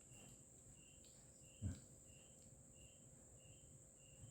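Near silence: a faint, even chirp repeating about one and a half times a second over a steady high hiss, like a chirping insect, with one soft thump about a second and a half in.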